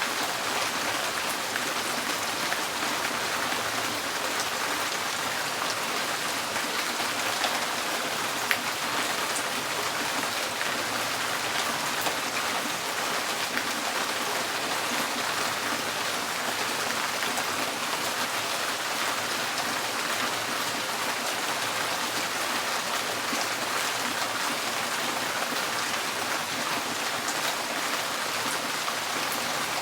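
Steady rain on a tin porch roof: an even hiss with scattered sharper ticks of single drops, a few louder ones about eight and twelve seconds in.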